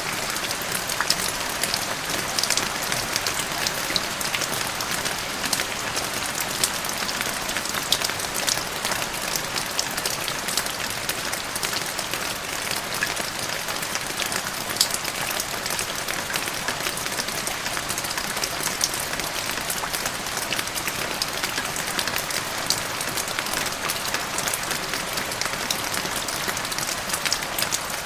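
Steady rain, with many individual drops striking the ground as small sharp ticks over an even hiss.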